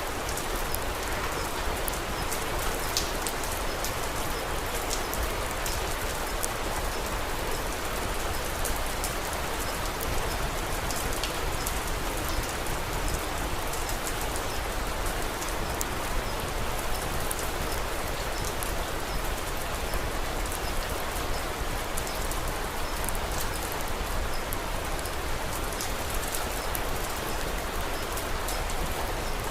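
Steady rain, with a dense patter of small drop ticks over an even hiss.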